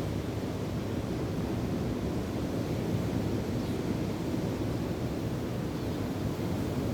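Wind and ocean surf: a steady, even rush of wind buffeting the microphone over breaking waves, heavy in the low end.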